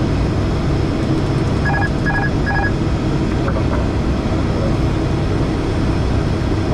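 Steady engine and airflow noise inside an airliner's cockpit on final approach, with three short electronic beeps about two seconds in.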